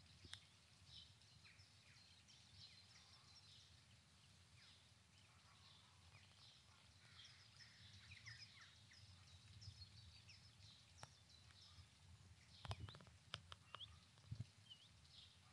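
Faint birdsong: many short, high chirps and trills from small songbirds over a low background rumble, with a few sharp clicks near the end.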